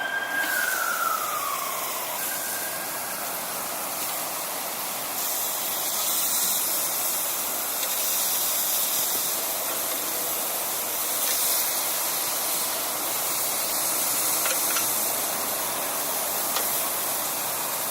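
Filet mignon steaks and chopped vegetables sizzling steadily in a hot pan, with a brief falling whistle in the first two seconds.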